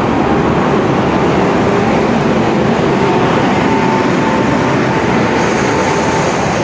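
Electric locomotive of an arriving passenger train rolling slowly past close by, its coaches following. The wheels on the rails make a loud, steady rumble, with a faint whine in the middle.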